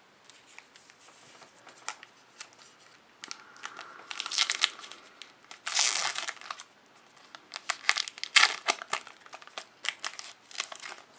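A trading-card pack wrapper being torn open and crinkled by hand, in several irregular bursts of rustling and tearing with small clicks between them.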